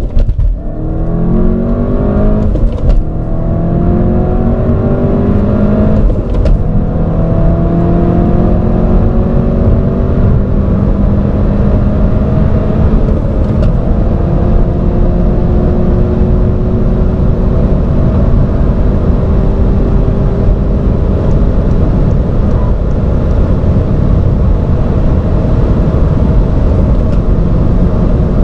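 The 2016 SEAT Leon Cupra ST 280's turbocharged 2.0-litre four-cylinder heard from inside the cabin, pulling at full throttle from about 60 to about 240 km/h. The engine note climbs in each gear and drops sharply at each upshift. The shifts come quickly in the first few seconds, then give way to long, slow climbs in the top gears.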